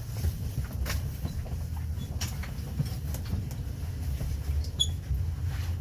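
Regional train rolling into a station, heard from inside the carriage: a steady low rumble with irregular clicks and knocks of the wheels over rail joints and points. A brief high squeak about five seconds in.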